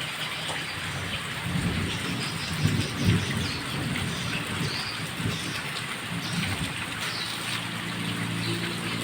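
Heavy rain falling steadily, with low rumbles that swell and fade, loudest about two and three seconds in.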